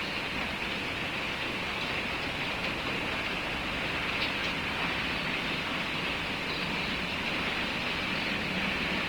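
Steady hiss of falling rain, with a few faint ticks and a low hum coming in near the end.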